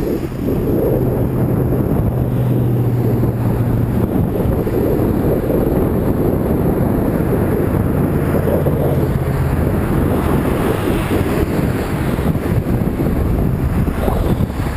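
Wind buffeting the microphone of a moving bicycle, with road traffic passing alongside; a low engine hum from a passing vehicle is heard twice.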